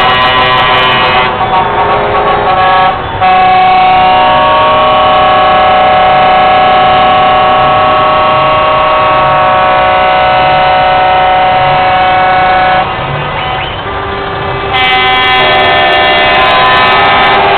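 Truck air horns on a Scania Topline, sounding loud sustained chords. The chord changes a few times, with one long steady blast through the middle.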